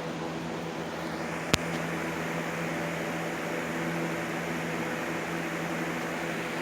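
2007 Hawaiian Breeze FB50-A3 20-inch box fan running steadily: a constant motor hum over the rush of air. A single sharp click comes about a second and a half in.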